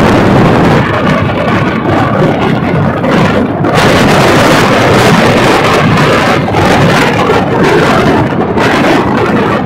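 Loud running noise of a moving passenger train heard from the open coach doorway: wheels on the rails and rushing air. The noise gets fuller and harsher about four seconds in, as the train enters a tunnel.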